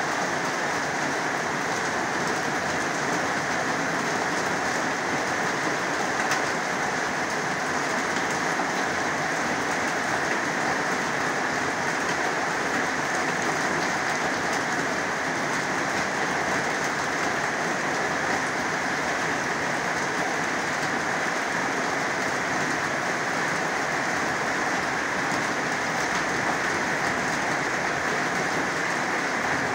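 Heavy rain pouring down, a steady, even hiss of dense drops with no letup.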